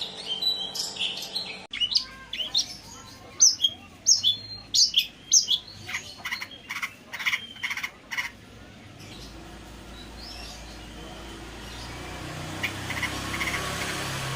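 Long-tailed shrike singing: a rapid run of short, sharp, high chirping notes, which thins out after about eight seconds into a quieter stretch with only a few faint calls over a low hum.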